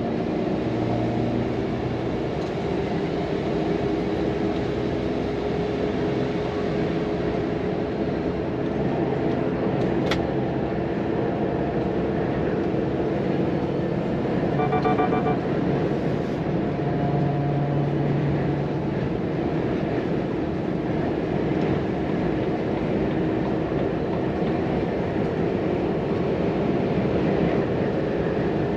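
Volvo FM truck's 13-litre six-cylinder diesel running under way with steady tyre and road noise, heard from inside the cab. A short pitched sound comes about halfway through.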